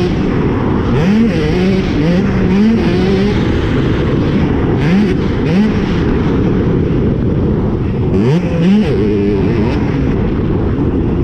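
65cc two-stroke motocross bike engine revving hard, its pitch climbing and dropping again and again as it accelerates and shifts, over a steady rushing noise.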